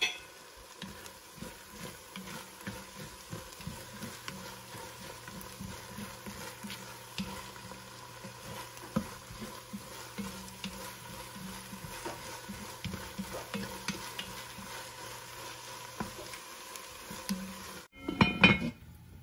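Chopped onions and garlic paste sizzling in oil in an enamelled cast-iron pot, with a spoon stirring and scraping against the pot in scattered small knocks. Near the end, the heavy cast-iron lid is set on the pot with a loud clank.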